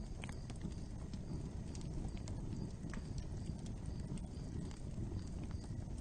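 Open fire burning: a steady low rumble with irregular crackles and pops scattered throughout.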